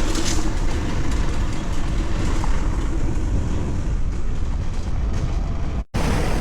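Steady rumbling wind and road noise of a moving electric-assist tricycle being ridden, heavy in the low end, cut off abruptly near the end.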